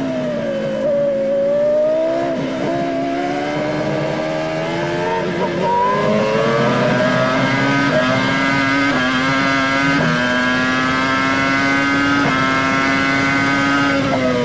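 Formula 1 V10 engine heard onboard. The revs drop at the start as the car brakes and shifts down, then rise and dip twice in short bursts. From about the middle the pitch climbs in one long run, stepping up through several upshifts a second or two apart, and near the end it drops sharply as the car brakes again.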